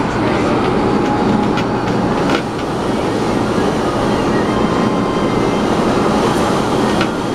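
MTR A-Train (Adtranz-CAF electric multiple unit) running at speed, heard from inside the car: a steady rumble of wheels and running gear with a faint steady whine and a few sharp clicks from the track.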